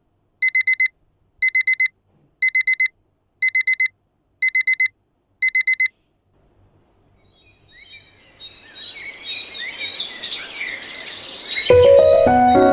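Electronic alarm clock beeping in quick groups of four, about one group a second, stopping about six seconds in. Birds chirping then fade in and grow louder, and music with piano-like notes starts near the end.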